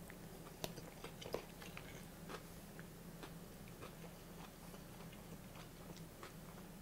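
A man chewing a mouthful of tuna macaroni salad, with faint scattered wet clicks of the mouth over a low steady hum.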